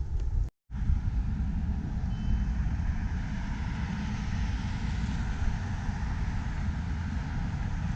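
Steady low rumble of a moving vehicle, with a brief total cutout about half a second in.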